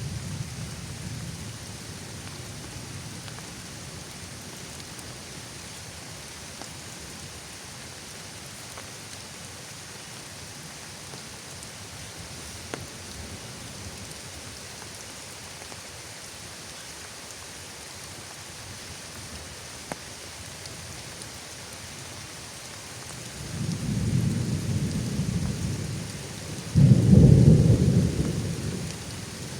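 Steady rain with thunder. A low rumble fades over the first couple of seconds, then near the end a roll of thunder builds and peaks in a loud boom before dying away.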